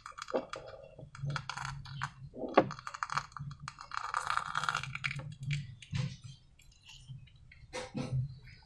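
Hands working slime and rubber balloons: irregular clicks, crackles and short sticky squelches.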